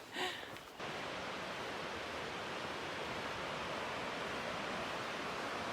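Steady rushing of flowing water that starts abruptly under a second in and holds an even level.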